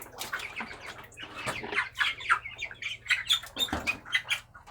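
A flock of broiler chickens calling, with many short calls overlapping several times a second.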